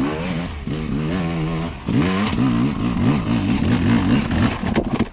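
KTM two-stroke enduro motorcycle engine revving hard off-road, its pitch climbing and dropping again and again as the rider works the throttle and gears.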